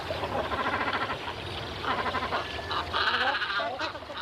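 Birds calling at a waterbird breeding colony: a series of short, nasal, repeated calls in about three bouts, the loudest about three seconds in.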